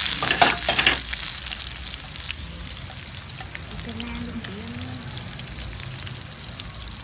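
Tofu frying in hot oil, a crackling sizzle with sharp spattering pops. It is loud for about the first second, then settles to a quieter, steady sizzle.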